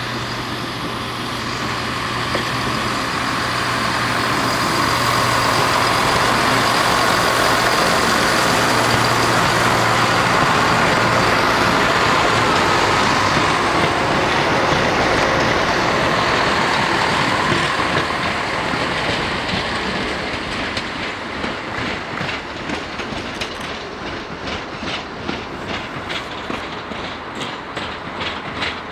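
Northern Rail Class 170 Turbostar diesel multiple unit departing, its underfloor diesel engines running under power as it pulls away and passes, loudest around the middle. In the last third the wheels click rhythmically over the rail joints while the sound slowly fades.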